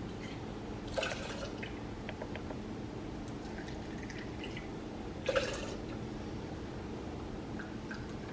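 Vodka being poured, a shot glass at a time, into the cocktail mix: two short splashes, about a second in and again about five seconds in, with faint glass ticks over a steady low room hum.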